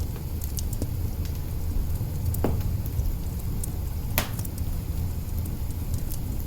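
Wood fire burning in an open hearth: a steady low rumble with scattered crackles and pops, the sharpest about four seconds in.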